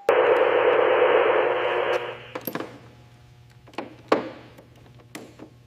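A loud burst of static-like hiss starts suddenly and cuts off about two seconds in. After it come scattered clicks over a low, steady electrical hum.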